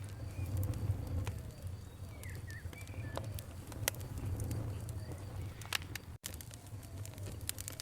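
Campfire crackling, with irregular sharp pops and snaps over a low steady rumble, and a few short bird calls in the background. The sound cuts out for an instant about six seconds in.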